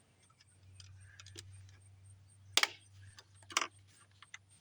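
A few sharp clicks and knocks, the two loudest about two and a half and three and a half seconds in, over a faint steady low hum.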